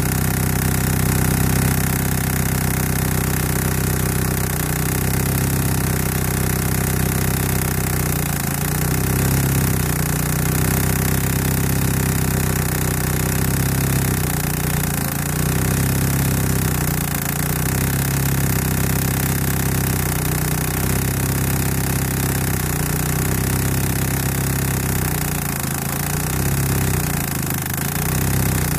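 1991 Eagle Talon TSi AWD's turbocharged 4G63 inline-four running steadily at idle, the car whose engine tick is being chased.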